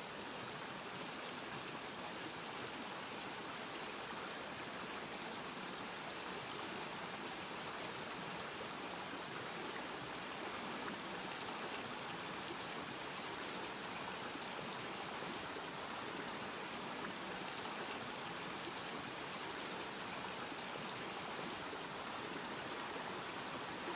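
Stream water running steadily over stones, an even rushing sound.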